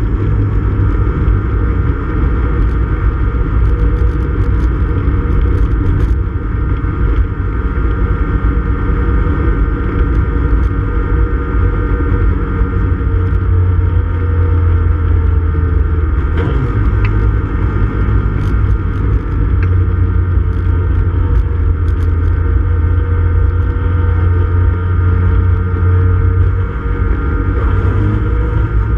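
Classic Mini Cooper S race car's four-cylinder engine running at a steady speed, heard from inside the cabin with a heavy low rumble. The pitch drops briefly a little over halfway through, then steadies again.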